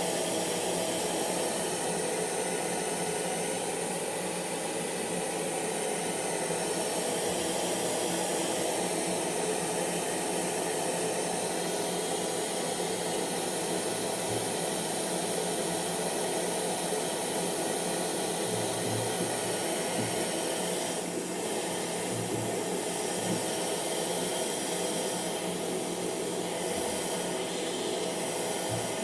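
Hair dryer running steadily: an even rush of blown air over a faint motor hum, level throughout.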